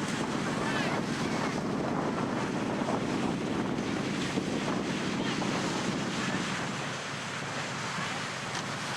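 Ocean surf breaking and washing on a sandy beach, with wind buffeting the microphone. The low rumble eases off a little near the end.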